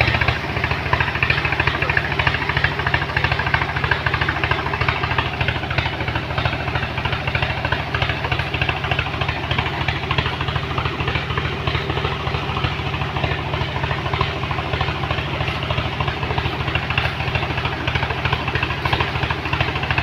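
Truck engine running steadily with a fast, even low pulse, holding the same level throughout.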